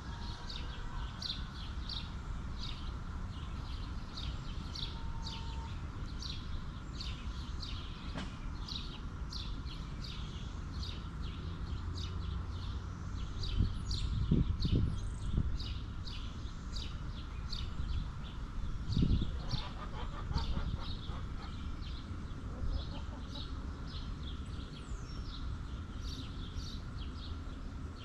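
Small birds chirping rapidly and without a break, several short high chirps a second, over a steady low rumble, with a few louder low sounds about halfway through.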